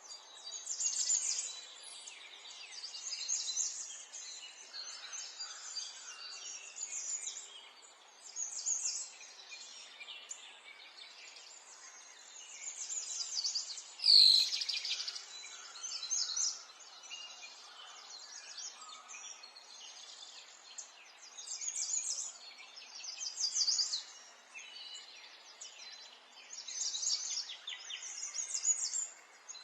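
Small songbirds chirping and singing in short repeated phrases over a faint steady outdoor background, with one sharp, louder note about halfway through.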